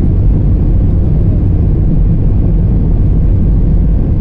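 Airliner's jet engines running at high thrust during takeoff and climb, heard inside the cabin as a loud, steady low rumble.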